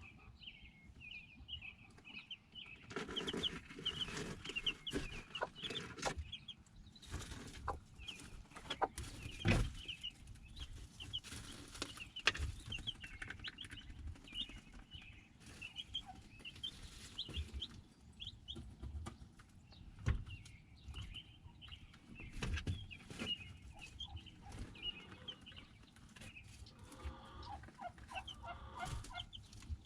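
A flock of chickens clucking, with many short high calls repeating throughout, and scattered sharp knocks among them.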